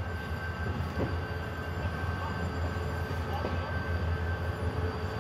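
Diesel train running along the track: a steady low rumble with a thin, steady high whine over it and a few faint brief wheel squeals.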